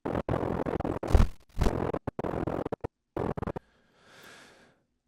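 Sound-effect previews being auditioned one after another, noisy and scratchy, each starting and cutting off abruptly, with two hard hits about a second and a half in and a faint hiss near the end.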